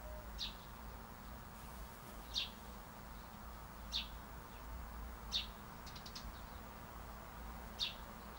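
A bird calling with short, high chirps, five of them spaced a second and a half to two and a half seconds apart, over steady faint background noise.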